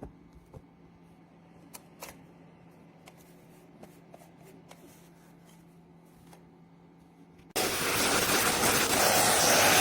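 A quiet stretch of low steady hum with a few faint clicks, then, about seven and a half seconds in, a loud even rushing noise starts abruptly and keeps going.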